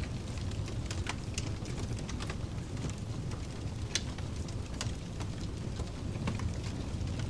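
Wood fire crackling with scattered sharp pops, one louder about four seconds in, over a steady low rushing pink noise.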